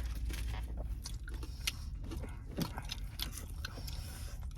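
Close-up chewing and biting of a chicken shawarma wrap: a run of small irregular wet clicks and crunches.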